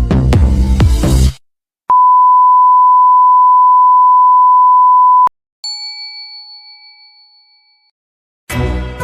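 Music cuts off, then a single steady electronic beep sounds for about three and a half seconds. A bell-like ding follows and rings away slowly, and music starts again near the end.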